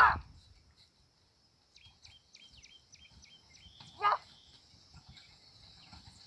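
Open-field ambience: a bird gives a quick run of short falling chirps, over a steady high-pitched insect drone. A loud short call sounds right at the start and again about four seconds in.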